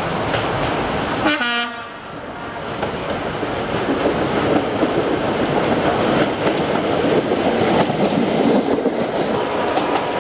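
A train's horn sounds once, briefly, about a second in, over the running noise of trains. The sound then drops suddenly and a train's running noise builds back up and holds steady.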